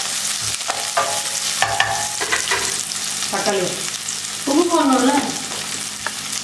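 Sliced shallots and garlic sizzling steadily as they fry in sesame oil in a stainless steel pan. A wooden spoon stirs and scrapes them in the first couple of seconds.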